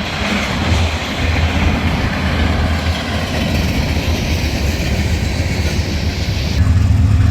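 A train passing, its cars rolling over the track in a steady rumble. Near the end the rolling noise gives way to a low steady hum.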